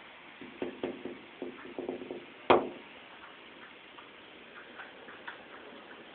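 Woodpecker pecking on a house: a run of about eight quick taps, then one much louder knock, then a few faint taps.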